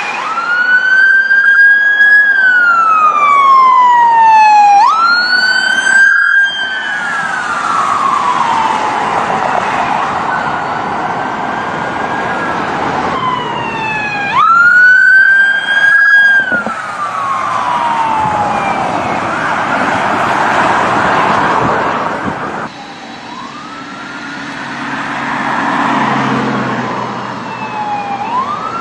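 Police car siren wailing: each cycle rises quickly to a high tone and falls slowly over a few seconds, repeated several times over steady road and engine noise. Another siren starts rising near the end.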